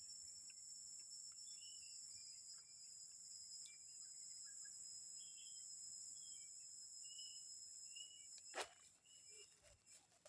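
Steady high-pitched drone of forest insects, with short bird chirps scattered through it and a single sharp knock about eight and a half seconds in.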